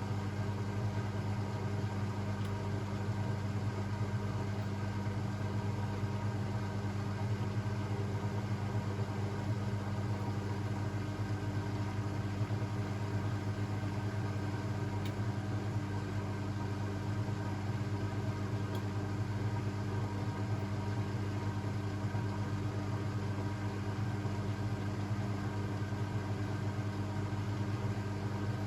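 Blomberg WAF 7442 SL washing machine running with a steady, unchanging hum.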